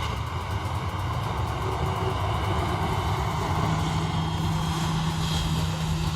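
Boeing 737 jet engines running at taxi power close by: a loud, steady rush with a high whine on top and a low hum that strengthens about halfway through.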